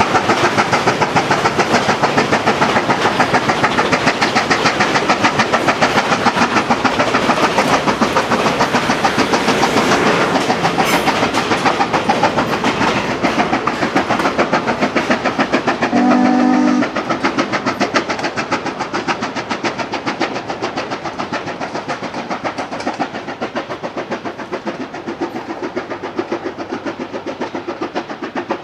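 A train running with a fast, even rhythmic beat, and one short whistle blast about halfway through. The sound grows a little quieter toward the end.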